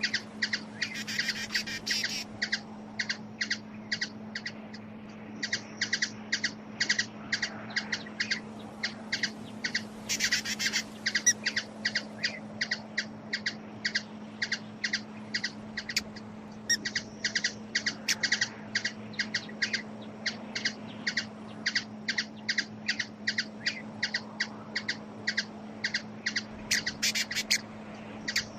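A bird calling in a fast series of short, repeated chip notes, about three or four a second, with a brief lull a few seconds in. A steady low hum runs underneath.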